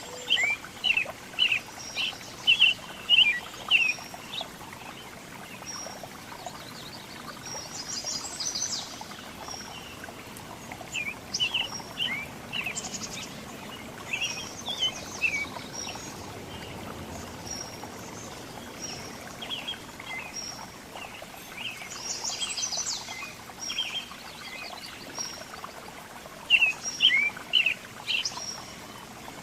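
Several small songbirds chirping and calling: clusters of quick, high chirps several a second, with thin higher notes and a couple of brief buzzy trills, over a steady background hiss.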